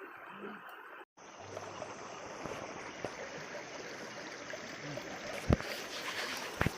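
Shallow river water running over rocks, with a brief break in the sound about a second in. Two sharp knocks stand out near the end.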